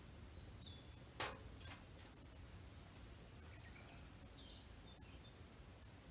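Faint outdoor ambience: an insect trilling at one steady high pitch throughout, with two short falling bird calls, one near the start and one about four seconds in. A single sharp crack about a second in, then a smaller one.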